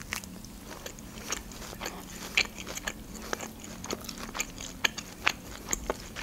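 A person chewing a mouthful of grilled shashlik meat close to the microphone, ASMR-style: irregular wet clicks and smacks of the mouth and teeth, a few sharper ones in the second half.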